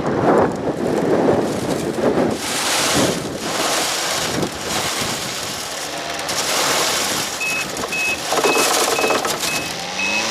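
Strong gusting wind buffeting the microphone in a blizzard. From about seven seconds in, a vehicle's backup alarm beeps about twice a second.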